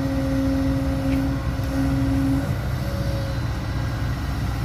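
Diesel dump-truck engine running steadily under way, with a steady whine that drops away about two and a half seconds in.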